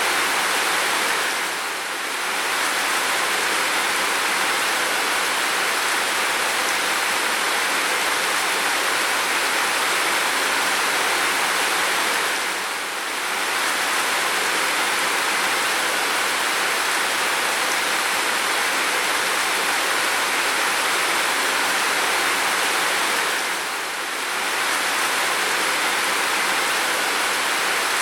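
Steady, continuous rain, an even hiss of many drops with no single impacts standing out. The level dips briefly about every eleven seconds, three times.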